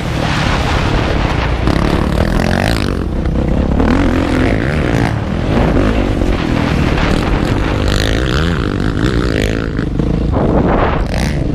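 Motocross motorcycle engine under hard riding, its pitch rising and falling over and over as the throttle is worked, heard up close from the bike with a rough, noisy rush over it.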